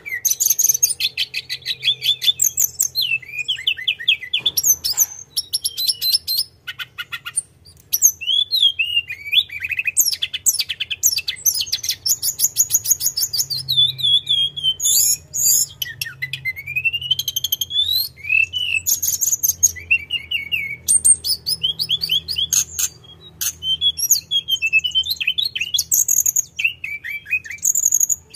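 Tledekan gunung songbird singing almost without pause in long, fast rolling trills and chattering phrases, high-pitched, with a few brief breaks. A faint low hum lies under the song.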